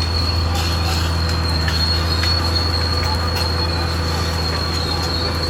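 Caterpillar D6R XL bulldozer's diesel engine running steadily under a constant high-pitched whine, with scattered metallic clanks.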